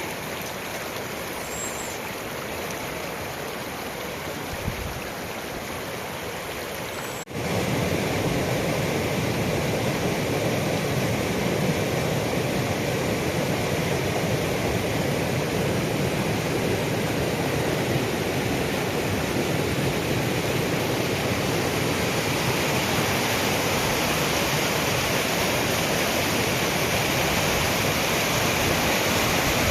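Steady rushing water, louder after a brief break about seven seconds in.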